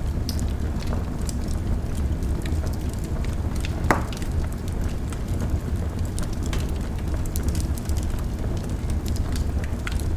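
Wood fire crackling in a fireplace: a steady low rumble of flame with scattered small pops and ticks, and one louder crack about four seconds in.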